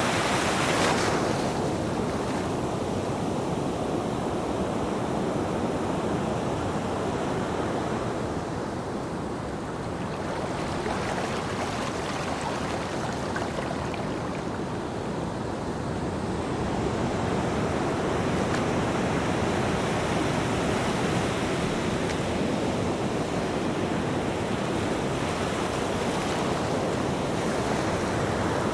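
Ocean waves washing onto a beach: a continuous rush of surf that swells and eases slowly, quieter in the middle and fuller again in the latter half.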